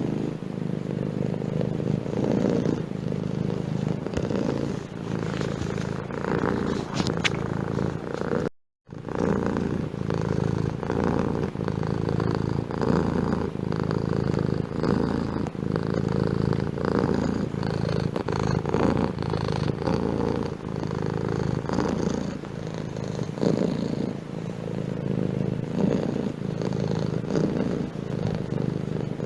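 Domestic cat purring close to the microphone, continuous and rising and falling in level every second or two. It drops out to silence for a split second about eight and a half seconds in.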